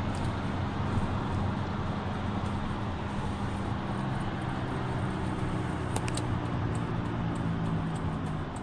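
Inside the cabin of a 1999 Jeep Cherokee on the road: engine, drivetrain and tyre noise with a steady low drone. A light hum is taken as no more than normal for the mileage, or perhaps the carrier bearing on deceleration.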